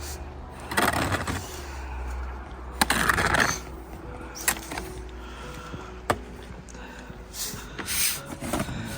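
An extendable roof rake scraping snow off a roof in three short pulls, with a few sharp knocks of the pole in between.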